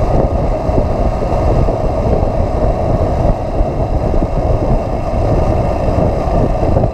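Motorcycle running at a steady cruise while riding, with wind rushing over the microphone.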